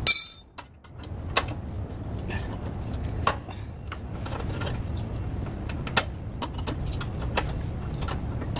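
A loud, short ringing metal clank, then a steady low rumble with a few sharp metallic clicks and taps spaced seconds apart. These are workshop tool-and-metal sounds during a suspension control arm replacement.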